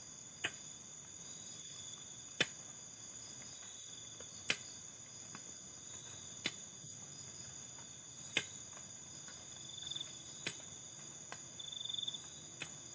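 Faint night chorus of crickets and other insects, a steady high-pitched trilling on several even pitches. A sharp click comes about every two seconds.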